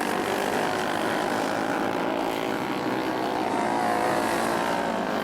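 Several flat-track racing motorcycles running flat out around a dirt oval, their engines a steady, overlapping drone. The pitch sweeps as a bike passes about halfway through.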